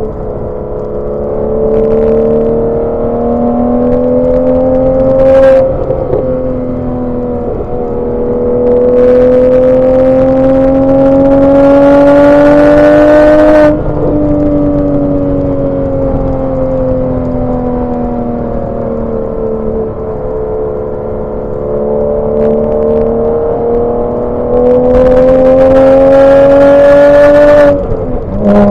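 Porsche 987 Boxster's flat-six engine pulling on the move: three times the revs climb steadily, louder as they rise, then fall away suddenly, about five seconds in, near the middle and near the end.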